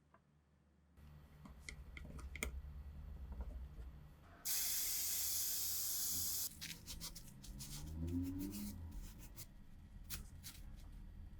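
A pressurised spray hisses steadily for about two seconds, starting and stopping abruptly, between small clicks and rubbing sounds of parts being handled.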